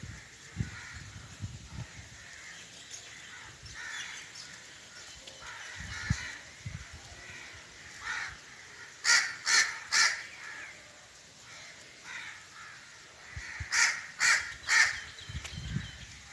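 Crow cawing: two runs of three loud caws a few seconds apart, with fainter calls before them.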